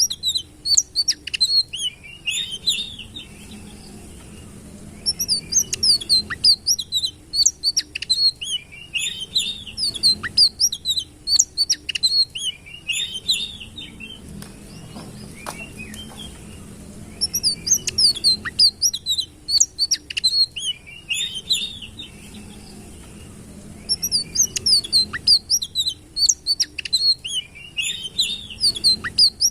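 Sitrun songbird singing in bouts of rapid, high, sweeping chirps. Each bout lasts a few seconds and is separated from the next by a pause of two or three seconds, over a faint low steady hum.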